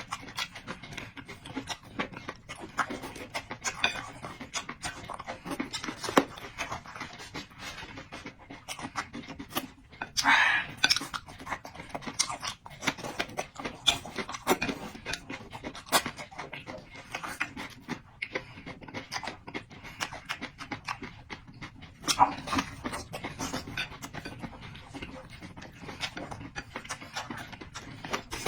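Close-miked eating sounds: chewing and mouth smacking, made of many small sharp clicks, with a few louder breathy bursts about ten seconds in and again about twenty-two seconds in.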